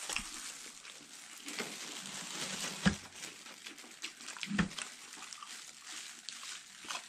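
Close-up chewing of crunchy battered fried squid, with small wet crunches and mouth smacks. Two short low bumps come about three and about four and a half seconds in.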